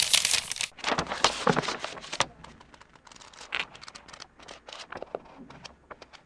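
Paper being handled: a loud rustle of paper that stops abruptly, then a burst of dense crinkling and crackling lasting about a second and a half, thinning out into scattered quieter crackles.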